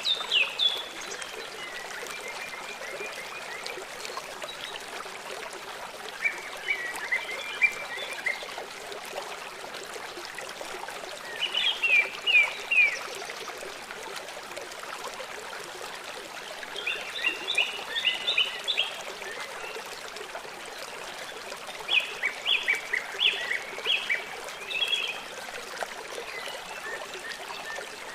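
Small songbirds chirping in short phrases of quick notes, about six bursts spaced a few seconds apart, over the steady trickle of a stream.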